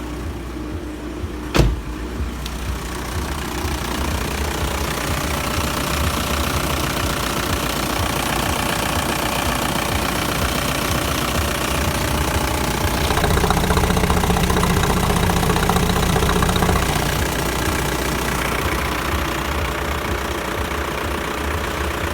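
VW Golf 4 1.9 TDI (ALH) four-cylinder turbodiesel engine running with steady diesel clatter, louder for a few seconds in the second half. A single sharp click comes about a second and a half in.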